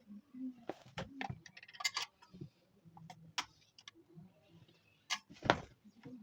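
Irregular clicks, taps and short knocks of small hard objects being handled, with brief rattles, the loudest a single knock about five and a half seconds in.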